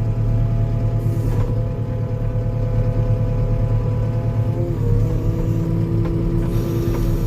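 Skid steer's diesel engine running steadily, with a whining tone that shifts pitch a couple of times as the machine works the ground with its grapple.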